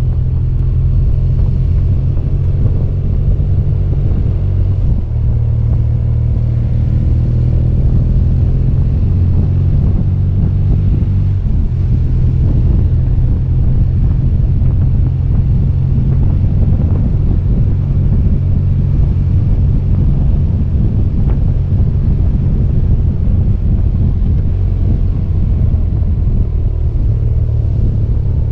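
BMW R 1200 GS flat-twin engine running at a steady pace under way, its low drone mixed with wind rush.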